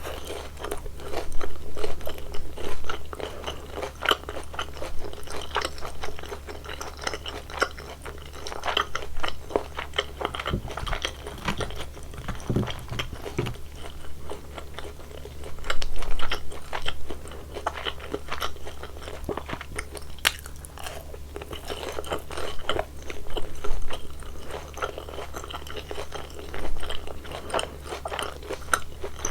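Close-miked chewing of crispy fried glutinous-rice sweet and sour pork: crunchy bites and crackling chews of the battered coating, in clusters with louder bursts every few seconds.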